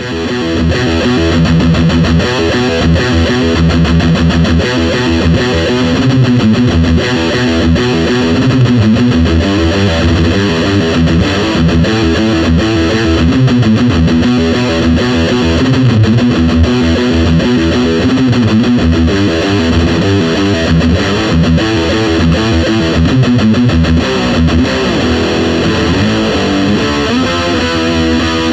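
Gibson Les Paul Custom electric guitar played through an overdriven Marshall amplifier, with continuous distorted riffs and chords.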